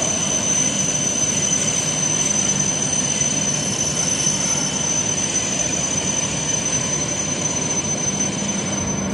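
Steady mechanical hum and hiss of a W7 series Shinkansen train standing at the platform with its onboard equipment running, with a thin, steady high-pitched whine over it.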